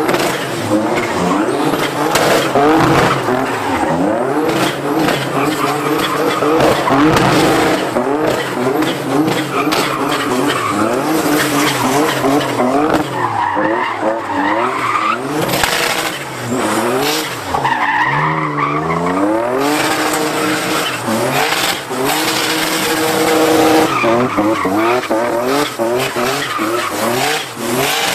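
Car doing donuts: the engine revs up and down over and over while the spinning tyres squeal and skid.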